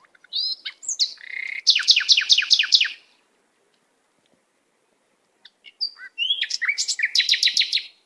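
A songbird singing two song phrases, the second starting about halfway through. Each phrase is a few short whistled notes followed by a fast trill of repeated down-slurred notes.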